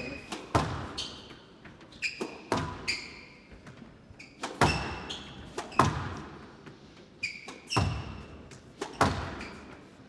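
Squash rally: the ball cracks off rackets and the walls about once every one to two seconds, each hit echoing in a large hall. Between the hits, court shoes squeak sharply on the wooden floor.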